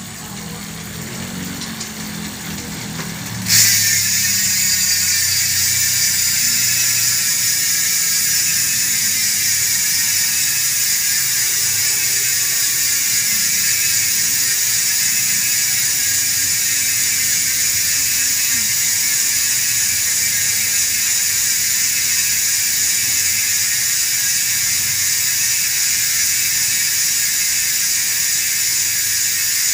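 Mountain bike rear hub freewheeling: the freehub's pawls click over the ratchet so fast they make a loud, even buzz as the spun wheel coasts. The buzz starts suddenly about three and a half seconds in and slowly falls in pitch as the wheel slows.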